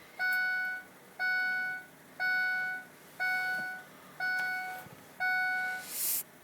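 Ford F-350's dashboard warning chime, beeping six times at about one a second, with the ignition switched on to cycle the diesel's glow plugs. A short hiss follows near the end.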